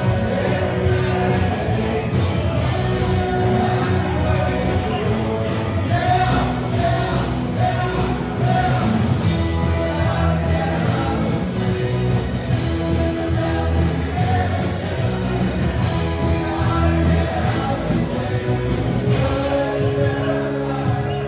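Live rock band playing with a singer, over a steady drum beat and bass.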